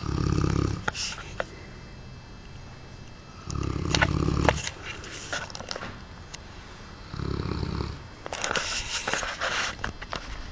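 Large Cane Corso dog snoring: three deep, rumbling snores about three and a half seconds apart, with hissing breaths and small clicks between them, the longest hiss just after the third snore.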